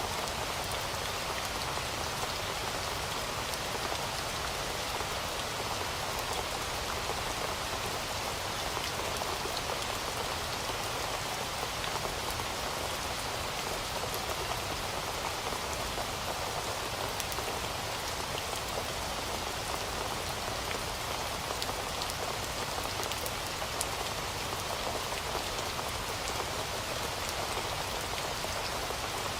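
Heavy rain falling steadily, an even hiss with scattered drop patter and no change in strength.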